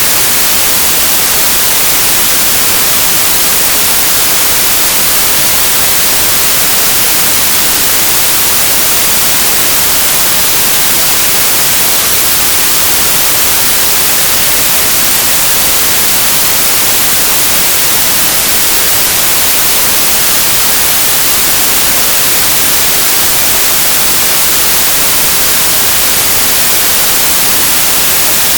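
Synthesized white noise: a steady, even hiss with a flat spectrum, bright and unchanging.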